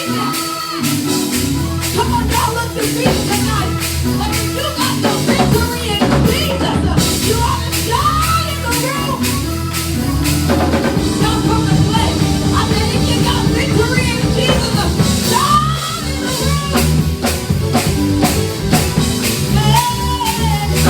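Live church praise band playing, the drum kit hitting steadily, with a voice singing over it at intervals.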